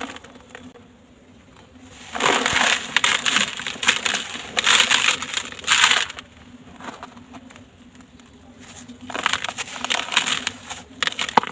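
Dry, gritty sand-cement blocks crunching and crumbling in a tub, full of small crackles. There are two long spells of crunching, the first starting about two seconds in and the second about nine seconds in.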